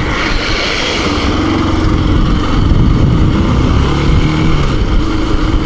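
Motorcycle engine running on the move, its note rising and falling with the throttle, under steady wind rush on the microphone.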